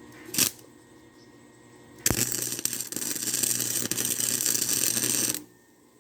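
Electric welding arc: a brief crackling blip, like a quick tack, then a steady crackling, sizzling bead of about three seconds that starts and stops abruptly.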